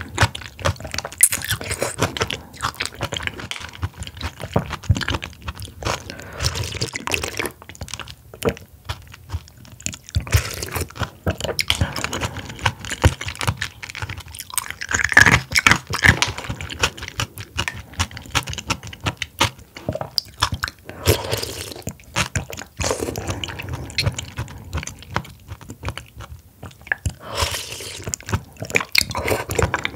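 Close-miked chewing and biting of someone eating oysters: a steady run of short mouth clicks and smacks in quick succession.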